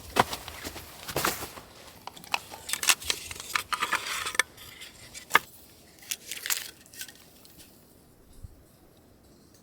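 Irregular crunching and rustling with sharp clicks, dense for about seven seconds and then thinning to a few faint ticks.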